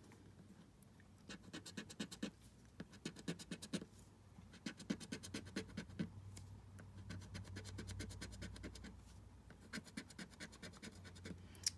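Scratch-off lottery ticket being scratched: runs of rapid scratching strokes rubbing off the coating, starting about a second in, with brief pauses between runs.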